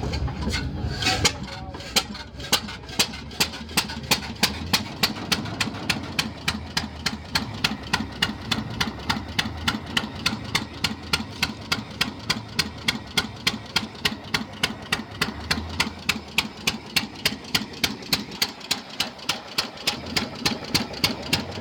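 1917 hit-and-miss stationary engine running, with a sharp, even knocking at about three beats a second that starts about a second in.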